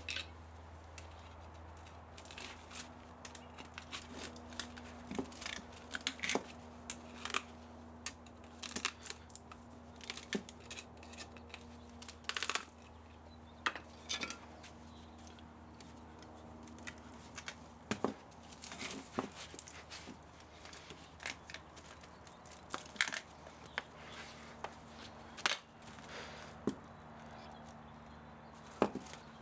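Hand tools working apart an old spa motor for its copper: irregular snips, clicks and scrapes of metal on metal, over a steady low hum.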